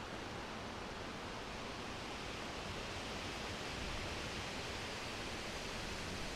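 Steady wind blowing: an even, unbroken hiss with a low rumble underneath, swelling slightly about halfway through.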